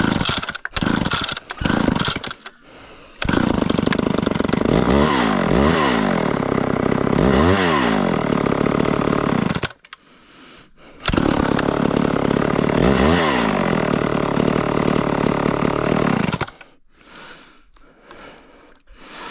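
Chainsaw engine running hard in two stretches of about six seconds each, separated by a short gap, its pitch dropping and climbing back up several times as it is throttled. A few short bursts of sound come before, in the first two seconds or so.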